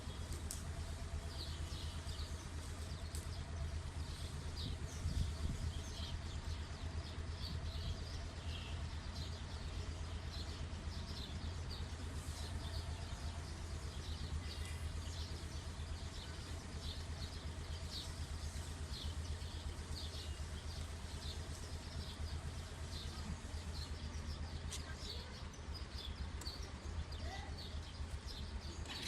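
Birds chirping, many short high chirps in quick succession, over a steady low rumble.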